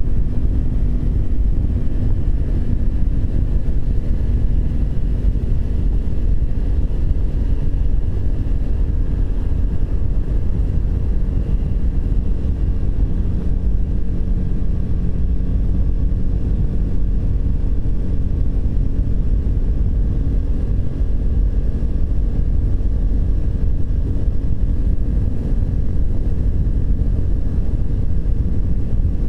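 Triumph Speed 400's single-cylinder engine running steadily under way, over a constant low rumble of wind and road on an onboard microphone.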